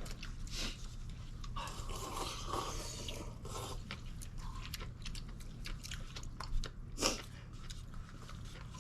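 Close-up chewing and crunching of a mouthful of noodles and green onion kimchi, with many short crunches and one sharper, louder crunch about seven seconds in.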